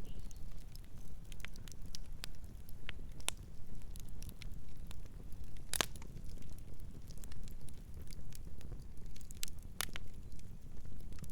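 Campfire crackling: scattered sharp pops and snaps over a low steady rumble, with the loudest pop about halfway through and another strong one near the end.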